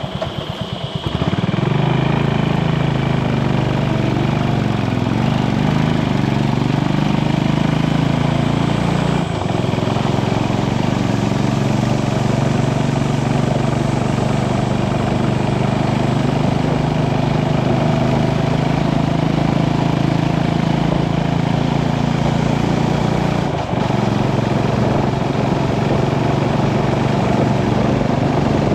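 Motorcycle engine running steadily while riding, over a constant rushing noise. The engine note dips briefly twice, about nine seconds in and again near the three-quarter mark.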